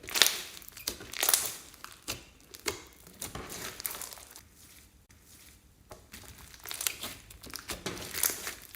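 Slime being squeezed and kneaded by hand, giving irregular crackling, crinkling squishes several times a second, with a quieter stretch about halfway through.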